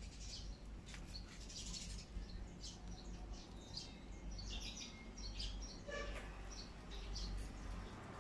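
Birds chirping, many short, high calls scattered throughout, over a low steady hum.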